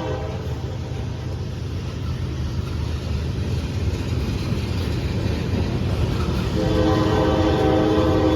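A CSX freight locomotive's horn sounds over the low rumble of the approaching manifest train. The horn fades out about half a second in and sounds again, louder, near the end, while the rumble grows.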